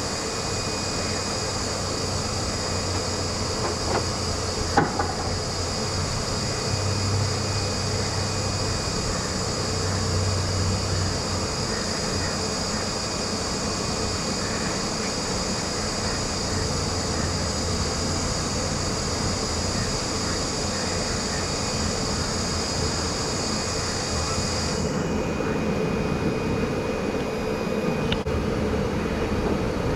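A steady, unbroken mechanical drone with a low hum, overlaid by a high steady whine that cuts off suddenly about 25 seconds in.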